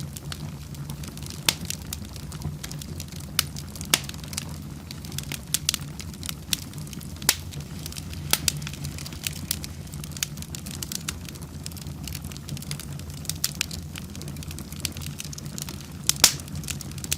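Wood fire in a fireplace: a steady low rush of flames with frequent, irregular sharp crackles and pops, the loudest a couple of pops about sixteen seconds in.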